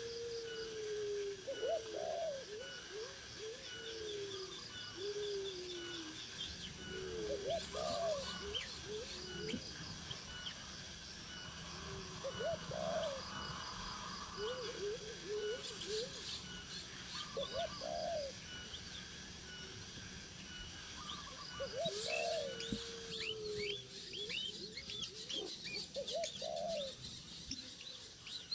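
Birds calling: a low, cooing call repeats every few seconds, with higher, quick chirps over it that grow busier near the end.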